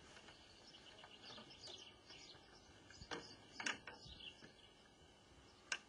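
Faint bird chirps in the background, with a few short clicks.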